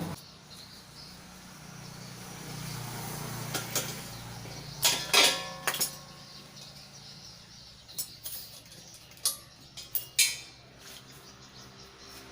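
Sharp clinks and knocks, about eight of them spread through the middle, over a low steady hum.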